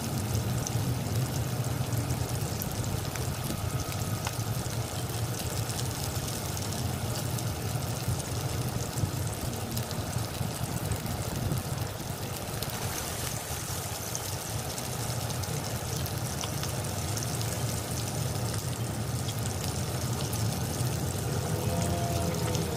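Pork belly pieces sizzling and crackling steadily as they fry in hot oil in a wok, over a steady low hum.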